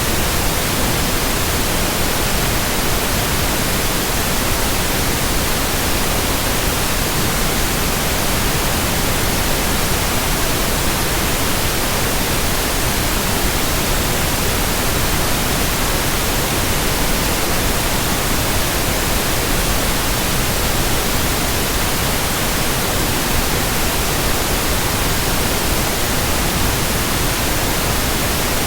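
Steady, unchanging white-noise hiss spread evenly from low to high pitch, with no swish, rhythm or hum in it.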